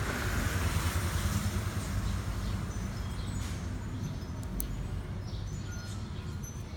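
Steady low background rumble with a haze of noise, easing slightly over time. A few faint high chirps and a sharp click come about halfway through.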